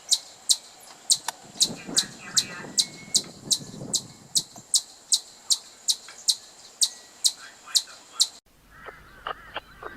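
Birds calling: a sharp, high chirp repeated about three times a second, with softer chatter beneath it, until a sudden cut a little after eight seconds in to a lower, harsher series of rapid calls.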